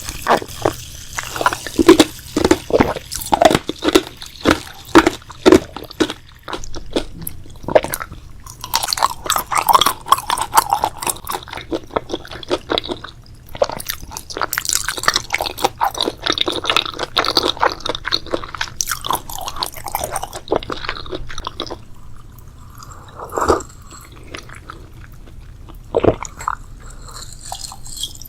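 Close-miked ASMR eating: crisp bites and crunchy chewing with wet, squishy mouth sounds. There are sharp crunches in quick succession at first, then a denser stretch of chewing, then a few separate crunches near the end.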